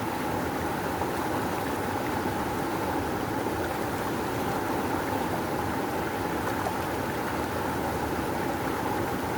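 Rushing river water flowing in a steady, unbroken roar of noise.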